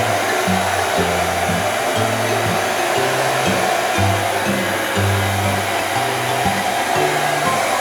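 A hair dryer blowing steadily, under background music with a low bass line that steps from note to note.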